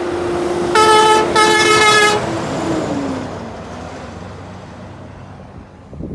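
Truck horn blown in two loud blasts, each under a second long, over the passing truck's engine noise. The engine's pitch falls and it fades away afterwards.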